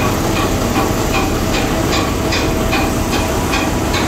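A ship's main diesel engine running steadily, with a sharp metallic tick repeating about two and a half times a second over its deep hum.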